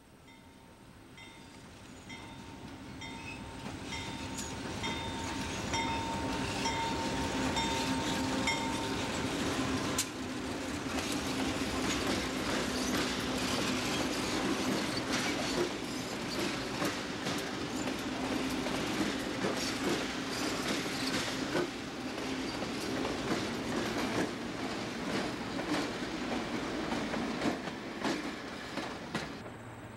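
Conrail GE diesel locomotives (C30-7A and B23-7) approach and pass with their engines running, growing louder over the first several seconds while a grade-crossing bell dings steadily. A string of empty coal hopper cars then rolls by, with fast, steady clicking of wheels over rail joints.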